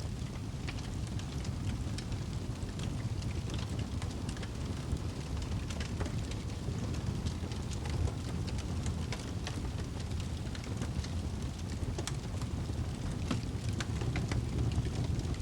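Wood fire burning in a fireplace: a steady low rumble of flames with frequent small crackles and pops scattered irregularly throughout.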